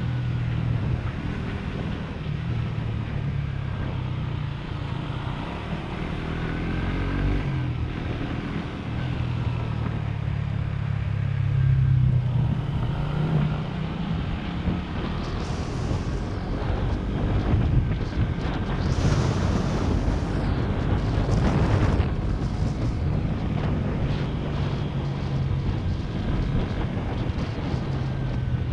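Motorcycle engine running while riding, its pitch stepping and gliding up and down with throttle and gear changes. Wind rushes over the microphone, in gusts that are loudest around two-thirds of the way through.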